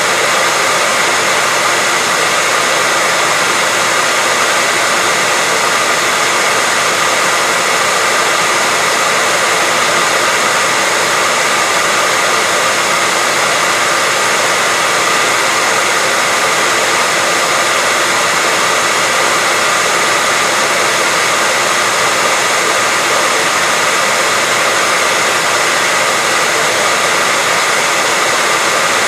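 Hair dryer blowing steadily: an even rush of air with a steady high whine in it, unchanging throughout.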